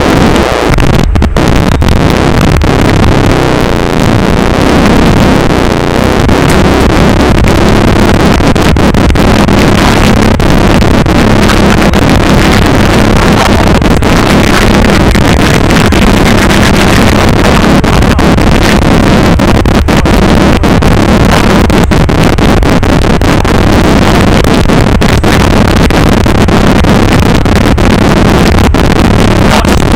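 Mitsubishi Lancer Evolution VI's turbocharged four-cylinder engine idling steadily with the car standing still, heard loud from inside the cabin.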